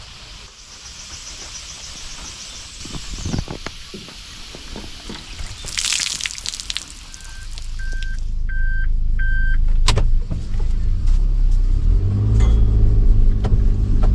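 A motor vehicle: four short electronic beeps, a sharp click, then a low rumble that builds and becomes loud near the end.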